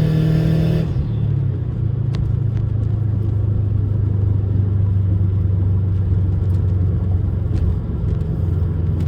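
Subaru WRX's turbocharged flat-four engine heard from inside the cabin: a brief rising rev that breaks off under a second in, then a steady low drone while cruising.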